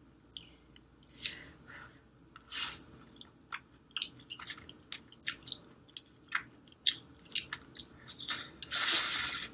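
Close-miked chewing of spicy instant noodles: an irregular string of short wet smacks and mouth clicks. Near the end comes a louder noisy sound lasting about a second.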